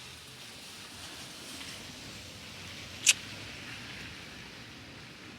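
Steady hiss of rain, with one sharp click about three seconds in.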